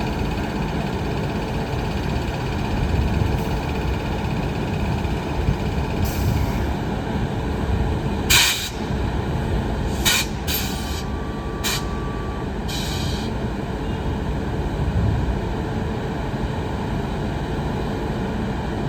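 Freight train of empty flat and container wagons rolling by with a steady rumble. Several short, sharp noises come between about six and thirteen seconds in.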